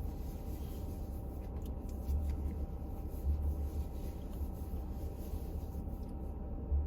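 Low, steady rumble of a car driving, heard from inside the cabin: engine and road noise that swells and eases unevenly.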